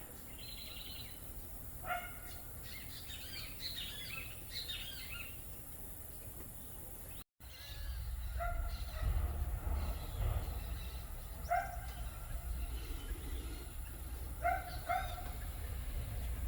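Birds calling: quick high chirps and short arched notes in the first few seconds, then, after a brief dropout about seven seconds in, a short call repeated every few seconds over a low rumble.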